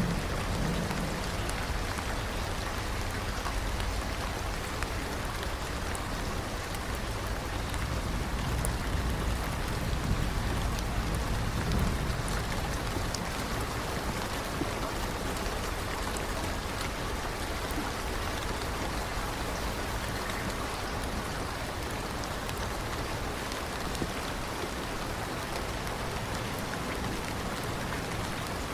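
Steady rain falling, an even hiss of many drops. Low rumbles of distant thunder sound under it, mostly in the first half and again near the end.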